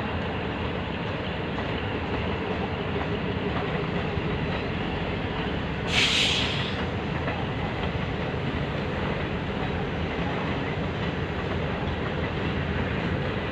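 Passenger train coaches running past on the track, a steady rattle of wheels and cars. About six seconds in there is a short burst of hiss.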